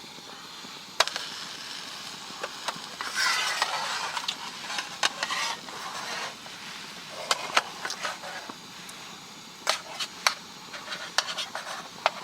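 Sharp clicks and knocks scattered throughout, with patches of rustling about three seconds in and again about seven seconds in.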